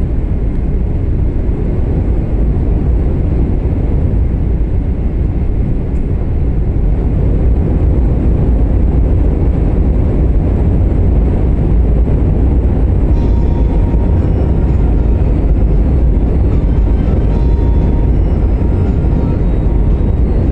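Steady low rumble of a 500-series Shinkansen running, heard inside the passenger cabin. About two-thirds of the way through, faint high tones join in.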